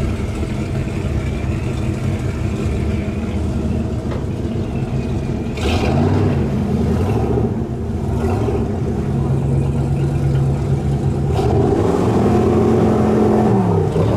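Speed boat's engine running at the ramp, with the throttle blipped several times: the engine note rises about six seconds in, holds steady, rises again near the end and then drops back.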